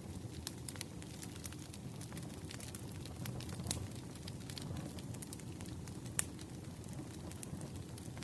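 Campfire crackling: irregular sharp pops and snaps over a low steady rush of burning wood, with two louder pops, one near the middle and one a little later.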